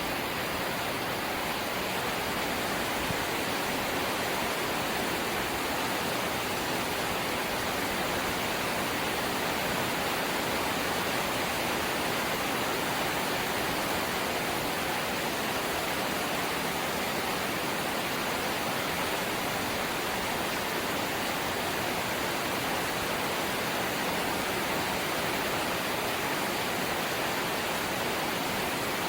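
Rain falling on a corrugated zinc (galvanized sheet-metal) house roof: a dense, even hiss of drops that holds steady throughout.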